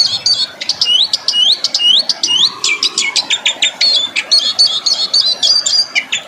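Songbird singing: a run of repeated high notes that sweep upward, a little over two a second, then a fast string of sharp chips and short trills.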